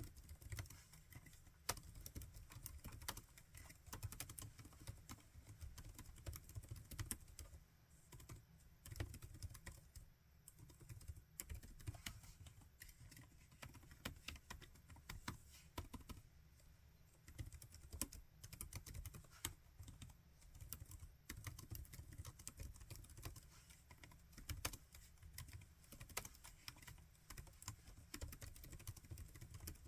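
Typing on a laptop keyboard: a quick, irregular run of soft key clicks with brief pauses, over a faint low hum.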